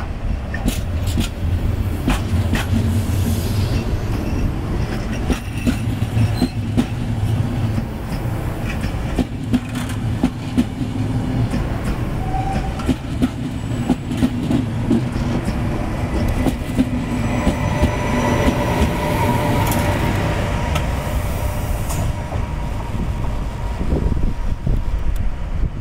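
FS E464-hauled regional train of coaches rolling past, with a steady low rumble and its wheels clicking over the rail joints. A higher whine joins about two-thirds of the way through.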